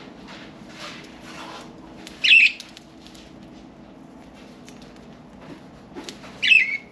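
Pet budgerigars calling: two loud, short chirps, about two seconds in and near the end, with soft wing fluttering between them.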